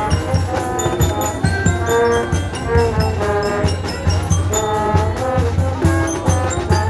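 Brass band with drums playing a tune: sustained brass notes over a steady, regular drumbeat.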